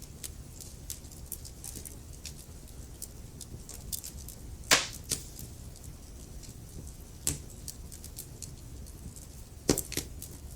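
Wood fire crackling in a fireplace: a steady run of small ticks with a few louder pops, the loudest a little under halfway and two close together near the end, over a low steady rumble.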